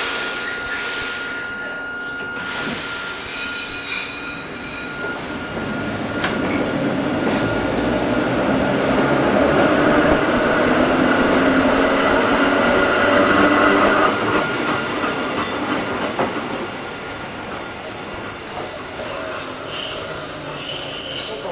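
Hakone Tozan Railway Moha 1 electric car No. 106, with nose-suspended SE121-A traction motors, running on the mountain line. A few short hissing bursts come in the first seconds, then the running noise builds and eases off after about 14 seconds. High-pitched wheel squeal comes a few seconds in and again near the end.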